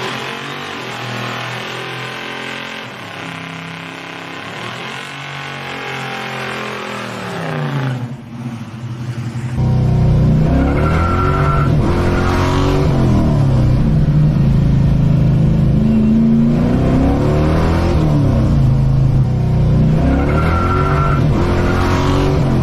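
V8 muscle car engine revving up and down again and again, moderately loud at first, then much louder from about ten seconds in.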